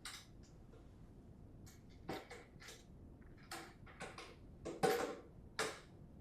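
A series of light clicks and knocks, about ten of them and unevenly spaced, the loudest two near the end: a bicycle's rear dropouts being fitted onto the axle spacers of a smart trainer.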